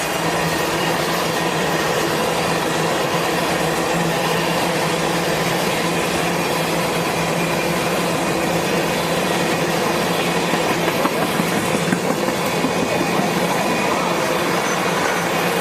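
Norfolk Southern freight train rolling past, its cars running by steadily with wheel-on-rail noise and some wheel squeal.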